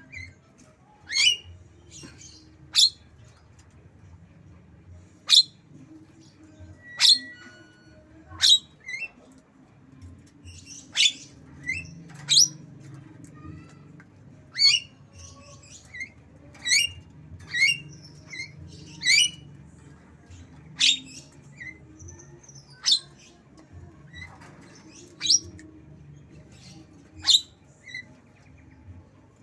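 Javan myna giving short, sharp, high calls about every one to two seconds, mimicking white-rumped shama song.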